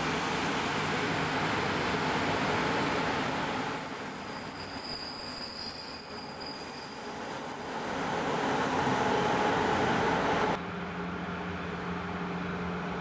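A train passing close by: a rushing rail noise swells up, is loudest for several seconds with a high, steady wheel squeal over it, then eases off. Near the end it cuts off suddenly to a quieter, steady hum.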